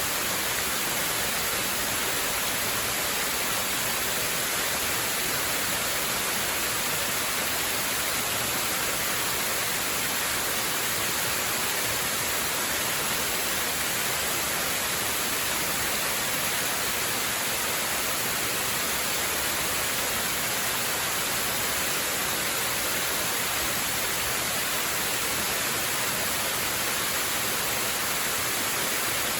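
Waterfall: a steady, unchanging rush of falling water, mostly a high hiss.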